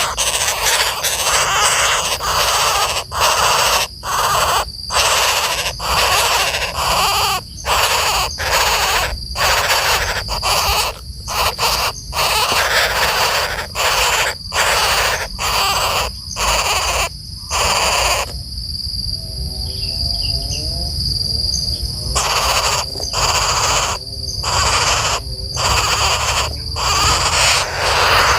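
Birds giving harsh, rasping calls almost without pause, broken by short gaps, quieter for a few seconds about two-thirds of the way through. A steady high-pitched insect drone runs underneath.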